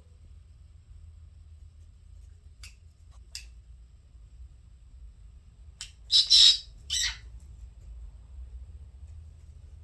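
Pet conure calling: a few faint short chirps, then a cluster of loud, harsh squawks about six to seven seconds in.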